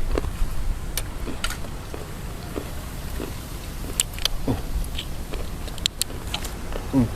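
Wind rumbling on the microphone, with scattered light clicks and taps throughout and a short falling tone near the end.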